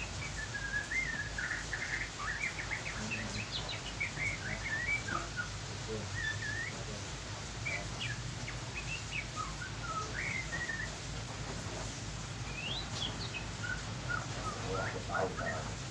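A bird chirping and twittering in short phrases that rise and fall, repeated on and off, over a steady low hum.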